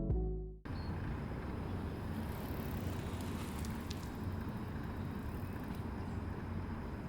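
String music stops abruptly in the first second. It is followed by steady outdoor ambient noise with a low rumble, like distant traffic.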